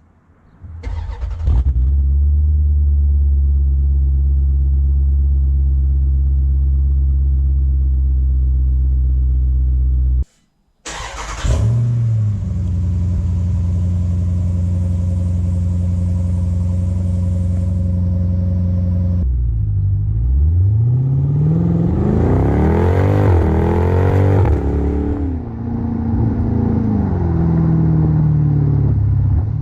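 2018 Jeep Grand Cherokee SRT's V8 through an XForce cat-back exhaust with its Varex valve open: it starts and settles into a steady idle, then starts a second time with a brief flare and idles again. About twenty seconds in it is revved several times, each rev rising and falling, before it drops back to idle.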